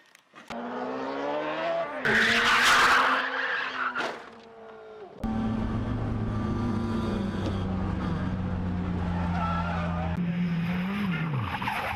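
Car engine revving up with tyres skidding and squealing, then after a cut an engine running at a steady pitch that drops near the end.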